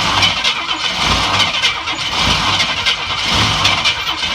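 Chevy Nova engine cranking and running unevenly on a cold start after sitting for 15 years, with a low surge about once a second.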